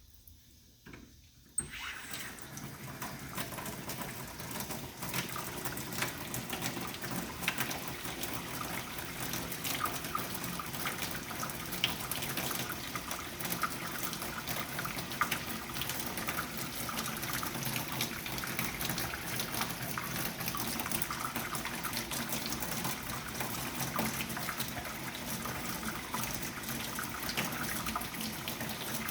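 Water starts running with a sudden rush about a second and a half in, then runs steadily, like an open tap or pipe discharging, with small splashes and clicks through it.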